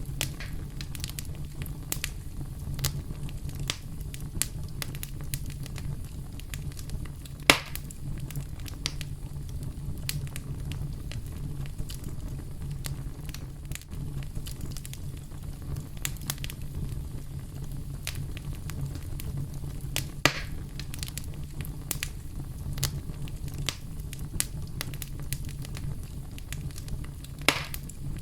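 Campfire burning: a steady low rumble of the flames with frequent small crackles and snaps of burning wood, and a few louder pops, about 7.5, 20 and 27 seconds in.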